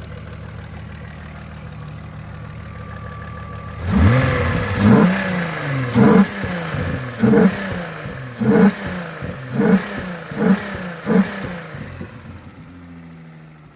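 VW Mk3 Jetta's 2.8-litre 12-valve VR6 idling steadily, then revved in a string of about eight quick throttle blips, each pitch rising and falling straight back, before it settles to idle again. The engine, with new timing chains and its noisy alternator replaced, is running good.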